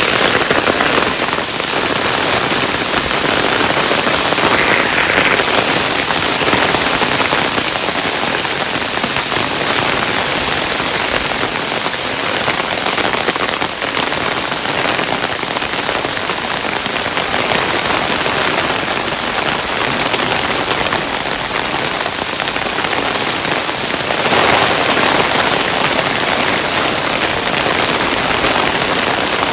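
Hailstones falling steadily and densely, a continuous clatter of many small impacts that swells briefly a couple of times.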